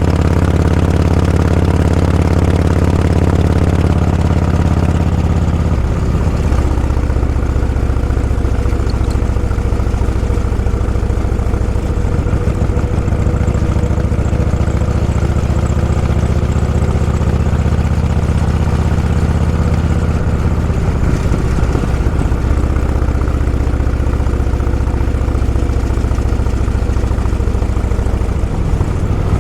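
Vehicle engine running steadily at low revs, its pitch dropping in steps about four and six seconds in and shifting again about twenty seconds in.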